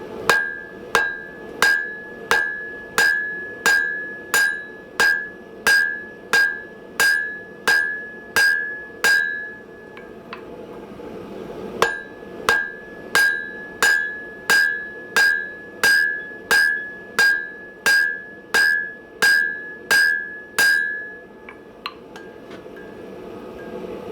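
Hand hammer blows on hot steel over an anvil, drawing out a hardy blank. Evenly spaced strikes come about one and a half a second, each with a short metallic ring. They fall in two runs with a pause of about two seconds in the middle, and a couple of light taps follow near the end.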